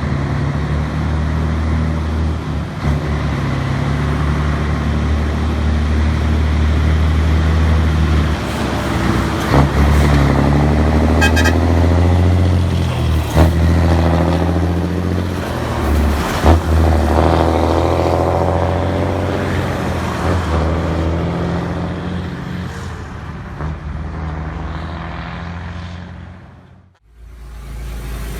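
Scania 113 truck's inline-six diesel engine rumbling through its exhaust. The engine note shifts and sweeps through the middle, with a few sharp knocks along the way, and the sound cuts out briefly near the end.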